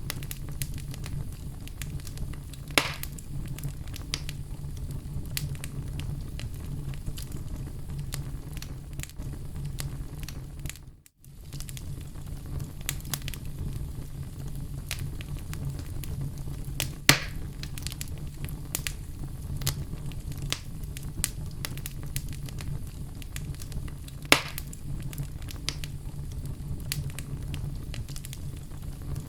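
Oak logs burning in a fireplace: a steady crackle of small snaps, with three louder pops spread through it. The sound drops out for a moment about eleven seconds in.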